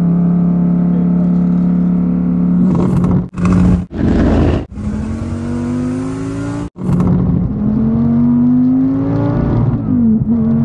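Twin-turbo Dodge Viper V10 heard from inside the cabin. It runs at a steady pitch at first, then, broken by a few abrupt cuts, pulls hard with the engine note climbing twice. Near the end the pitch drops at a gear change.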